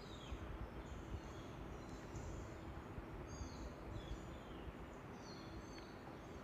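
Forest birds calling: short, high chirps scattered through, many of them falling quickly in pitch, faint over a steady background hiss, with a faint steady hum underneath.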